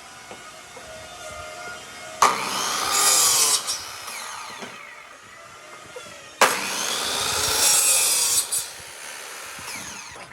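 Power tool cutting wood, two passes about four seconds apart, each starting abruptly and lasting about two seconds, with the motor's pitch shifting under load.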